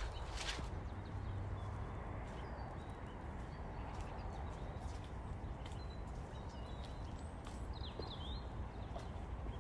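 Footsteps of someone walking in wellies over wet, boggy ground, with a steady low rumble underneath. A few faint bird chirps come in the second half.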